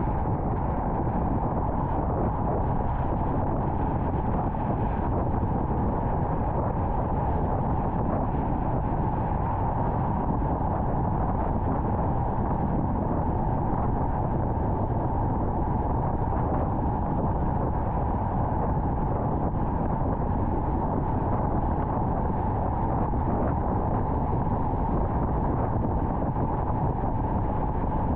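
Steady road and wind noise of a car driving at highway speed, a constant low rush without any distinct events.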